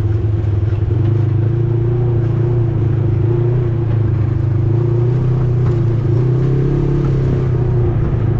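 ATV engine running steadily while riding, its pitch shifting slightly up and down with the throttle.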